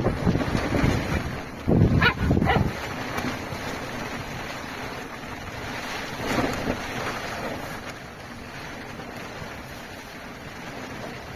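A puppy barking a few times: two sharp barks close together about two seconds in, and another about six seconds in. A steady rushing noise of wind or rain runs underneath.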